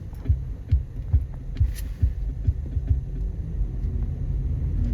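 Low rumble of a car driving, with a run of dull low thumps about twice a second.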